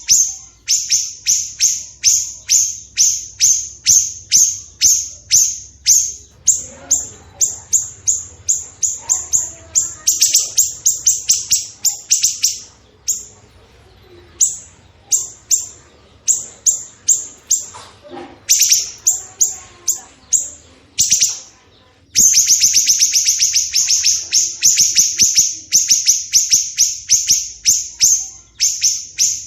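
Songbird calls from a masteran recording of cucak jenggot and small siri-siri birds: a long run of short, sharp, high notes that each sweep downward, about three a second. Faster trilled runs come about ten seconds in and again from about 22 seconds on.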